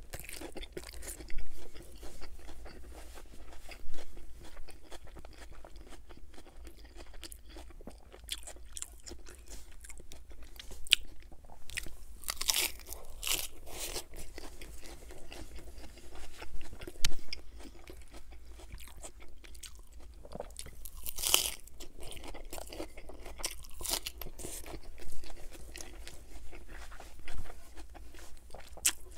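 Close-miked chewing of a lettuce-wrapped burger: moist chewing broken by crisp crunches of lettuce every few seconds.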